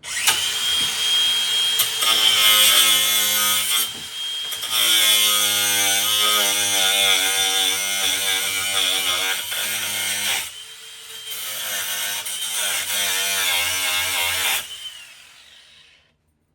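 Handheld power tool cutting, its motor pitch wavering as it loads, in three long runs with short breaks about four and ten and a half seconds in. It stops near the end.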